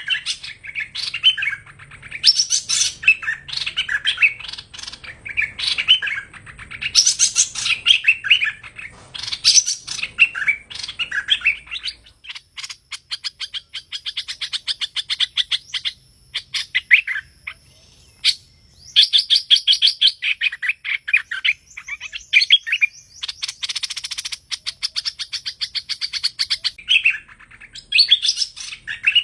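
Hoành hoạch bird singing: varied, rapid chirping and twittering phrases in repeated bursts, turning about halfway through to runs of fast ticking trills.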